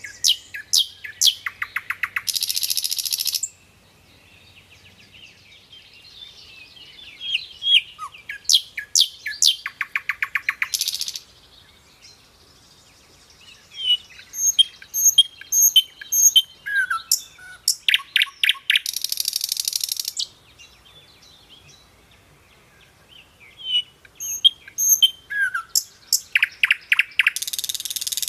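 Songbird singing in repeated phrases: a run of quick chirps and whistles that ends in a fast buzzy trill lasting a second or two, four times over, with short pauses between phrases.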